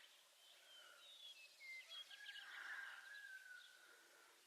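Near silence with faint birds chirping, one longer whistled call about halfway through.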